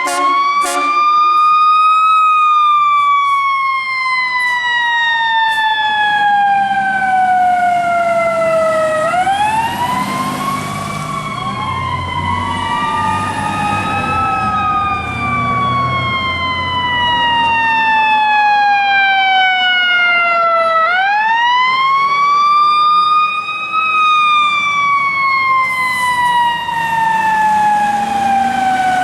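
Fire truck sirens repeatedly winding up and then slowly winding down, three times. A second siren overlaps in the middle, under a low truck rumble.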